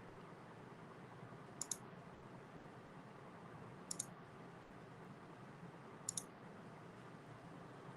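Computer mouse clicks: three quick double ticks, each a button press and release, about two seconds apart, over a faint steady hiss.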